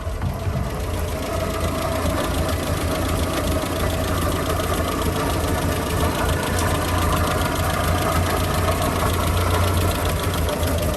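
1966 Land Rover Series IIa's 2.25-litre four-cylinder petrol engine, fitted with a Weber carburettor conversion, idling steadily, heard close up under the open bonnet. Its slight extra noise is one the owner takes for a slightly noisy water pump, or possibly the dynamo.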